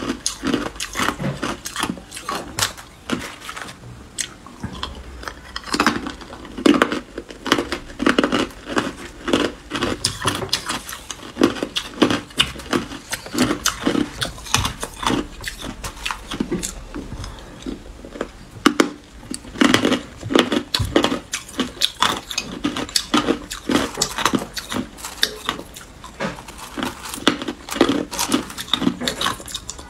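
A person biting and chewing hard clear ice: a rapid, irregular run of crunches and cracks.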